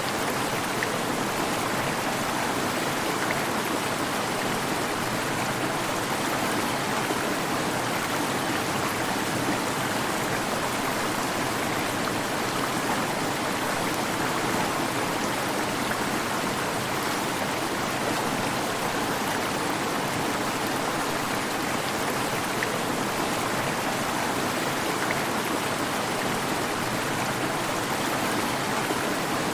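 Waterfall: a steady rush of falling water with no change.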